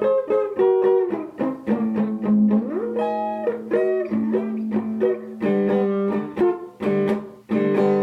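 Solo blues guitar playing an instrumental passage: a run of picked single notes with upward pitch slides over a ringing low note.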